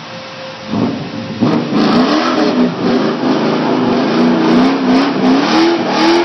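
1997 Pontiac Trans Am's LT1 V8, breathing through Pacesetter headers and a 3-inch custom exhaust, idling and then revving hard in a burnout about a second in. The revs then rise and fall over and over.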